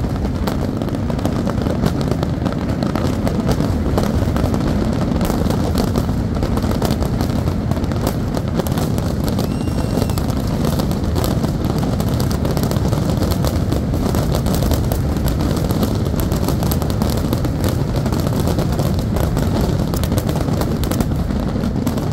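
Dense barrage of aerial fireworks shells bursting in quick succession: a continuous low booming laced with many sharp bangs and crackles, holding an even loudness throughout.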